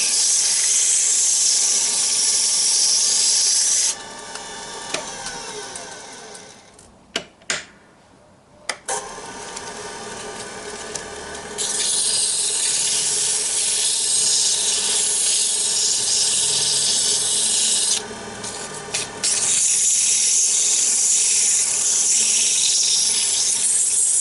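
Sandpaper hissing against a small wooden egg cup spinning on a wood lathe, in long, loud stretches. About four seconds in the sanding stops and the lathe's motor hum falls in pitch as it winds down; a few sharp clicks follow, then the motor runs up again and the sanding resumes. Another short break with clicks comes near the end.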